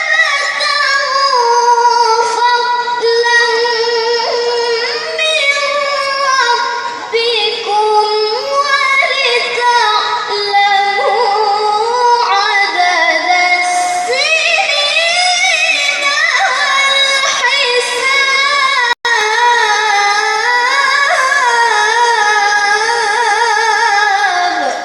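A child reciting the Qur'an in melodic tilawah style, a high voice drawing out long phrases with ornamented pitch bends. The sound cuts out for an instant about 19 seconds in.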